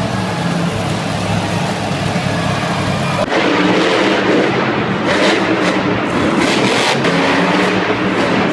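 Monster truck engine running loud and revving, with an abrupt change in the sound about three seconds in.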